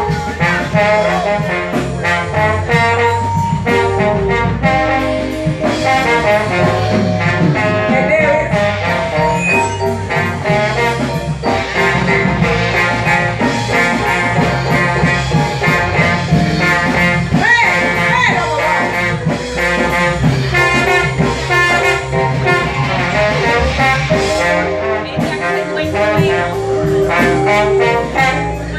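Live band playing an instrumental jazz number with horns over a steady drum beat and bass line.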